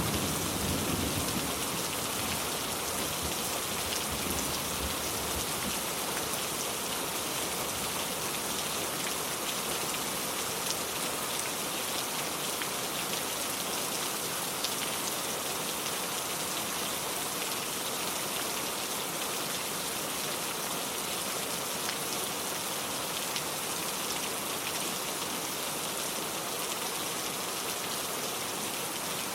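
Steady rain falling: a dense, even hiss of drops with scattered individual drop ticks, holding at one level throughout. A brief low rumble sounds at the very start.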